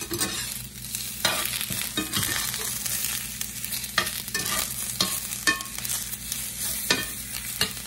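Sliced potatoes and onion rings frying in olive oil in a cast-iron skillet: a steady sizzle, broken every second or so by the sharp clicks and scrapes of a fork turning them against the pan.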